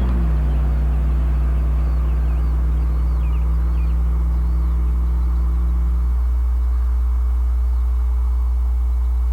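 1999 Chevrolet Silverado's 5.3L LM7 V8 idling through a straight-through Cherry Bomb muffler, a steady deep exhaust note. Its pitch steps down just as it begins and again about six seconds in, as the idle settles lower.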